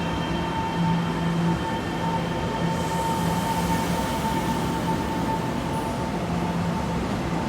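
Taiwan Railways EMU700 electric multiple-unit local train pulling out of the station: steady running noise with a constant high hum, and a low hum that comes and goes.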